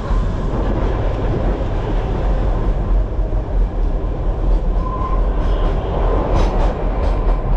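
Narrow-gauge Kalka–Shimla train running with a steady rumble and rattle. There is a brief high tone about five seconds in and a few sharp clicks near the end.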